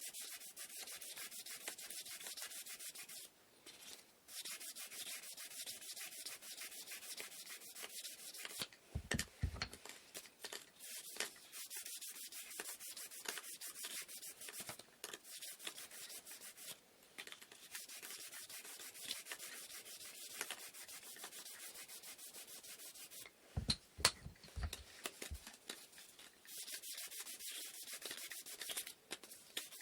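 Sandpaper worked by hand over wooden inkle loom parts: quick back-and-forth scraping strokes that stop briefly a few times. A few dull knocks come about nine seconds in and again about three quarters of the way through.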